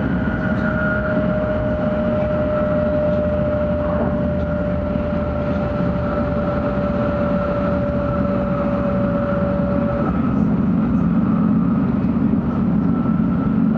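Cabin noise of a 700-series Shinkansen running at speed: a steady low rumble. A thin steady whine sounds over it, dropping a little in pitch and stopping about ten seconds in, after which the rumble grows slightly louder.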